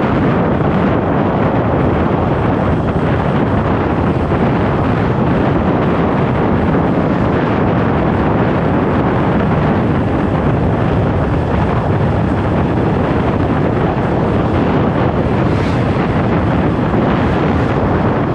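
Steady, loud wind rush buffeting the microphone on a moving motorcycle, with road and vehicle noise underneath.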